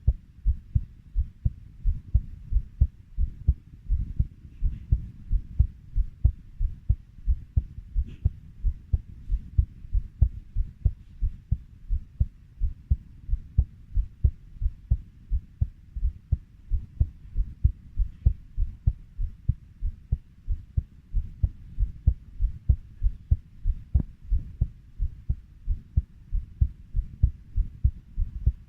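Heartbeat at a steady 90 beats a minute: an even run of low, dull thumps.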